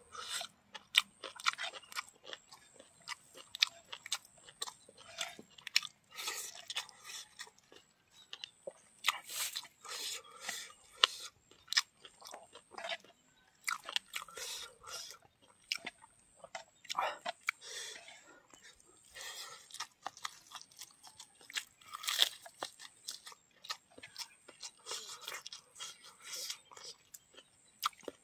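Close-up chewing and crunching of a mouthful of food, a person eating rice and buffalo meat, with irregular bites, crackles and mouth clicks.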